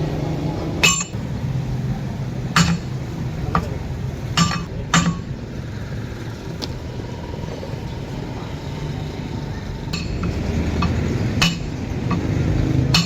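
Irregular metal clinks and knocks of hand tools working on a backhoe tyre: about ten sharp strikes spaced unevenly, most in the first five seconds, over a steady low hum.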